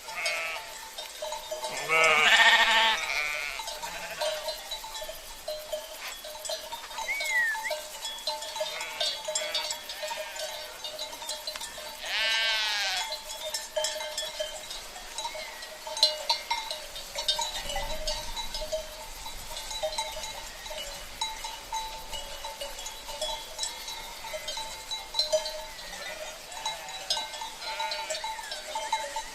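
Sheep bleating, one loud bleat about two seconds in and another around twelve seconds, over the steady clanking and ringing of livestock bells (cencerros).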